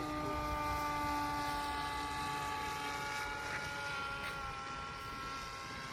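Scratch-built Sky Hunter drone's propeller motor whining in flight, a steady pitched hum whose pitch slowly sinks, over a low rumble.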